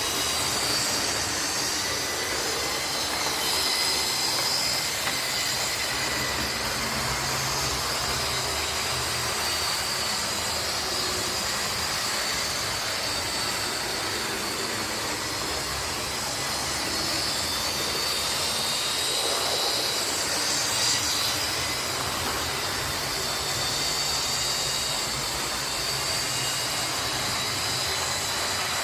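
Model class 37 and class 47 diesel locomotives running on the layout's track. A steady mechanical running sound with a high whine that drifts a little in pitch.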